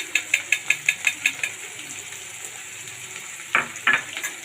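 Metal spoon knocking rapidly against the cooking pan while mixing in the pepper powder, about eight quick clicks a second for a second and a half, then two louder strokes near the end.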